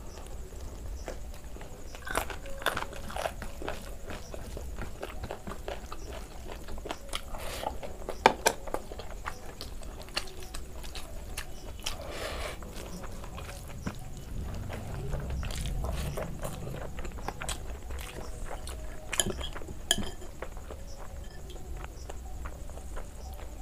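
Close-miked chewing and wet mouth sounds of a person eating rice and curry by hand, with scattered clicks and a few sharper clicks. A low hum runs underneath.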